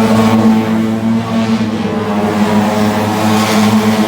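Car engine running at a steady, unchanging speed, a constant low drone with no rise or fall in pitch.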